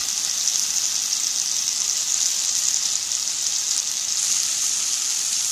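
Plantain strips and onion-tomato masala sizzling steadily in a non-stick frying pan while being stirred with a slotted steel spatula.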